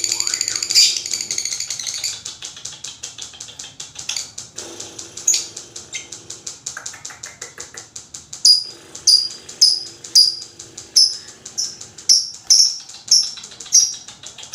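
Lovebird chattering in a long, rapid high-pitched trill (the 'ngekek'), then from a little past halfway sharp shrill chirps repeating a little over twice a second.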